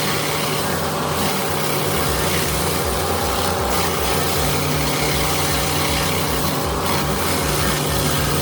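An engine running steadily at an even speed, with a regular low pulsing.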